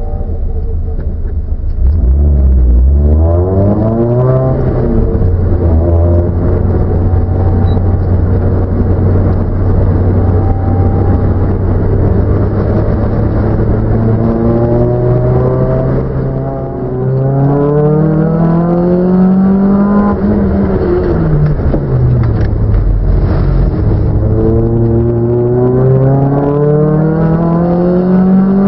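Car engine running hard, its revs climbing and dropping repeatedly: rising from about 2 to 5 seconds in, holding steady, climbing again from about 16 to 20 seconds in, falling briefly, then climbing again toward the end.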